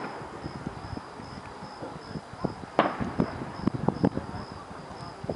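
Distant fireworks going off in a quick run of sharp bangs about three to four seconds in. Underneath, a cricket chirps steadily at about three chirps a second.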